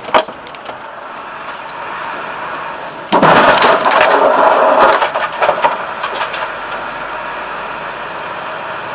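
A sudden loud crash about three seconds in: a burst of cracking and breaking noise lasting around two seconds, with scattered sharp cracks for a second or so after. Beneath it runs the steady road noise of a car cabin.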